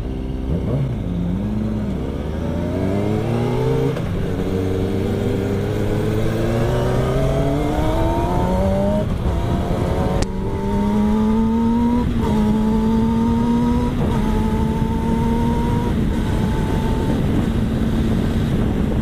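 Kawasaki ZX-6R sport bike's inline-four accelerating through the gears: the engine note climbs in pitch and drops back at each of several upshifts, then holds a steady cruise for the last few seconds. Wind rushes over the helmet microphone throughout.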